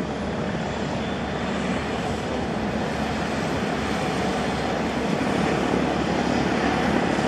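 Agusta AW109 twin-turbine helicopter running, a steady rushing noise with a faint high whine that slowly grows louder.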